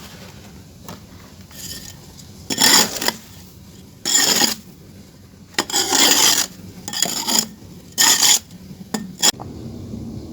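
A series of gritty scraping strokes on dry, crumbly material, about seven in all, the longest near the middle and two short quick ones near the end.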